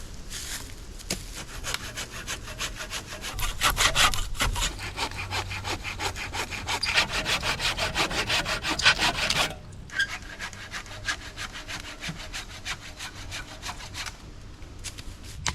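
Hand saw cutting through wood with quick back-and-forth strokes, which stop about nine and a half seconds in, followed by lighter, sparser strokes.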